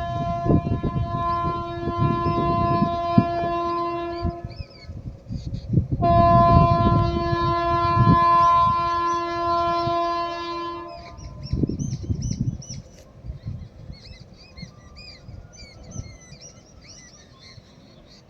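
Indian Railways locomotive horn sounding two long blasts, the first up to about four and a half seconds in and the second from about six to eleven seconds, over the low rumble and clatter of the train on the track. The train noise then fades and bird chirps are left near the end.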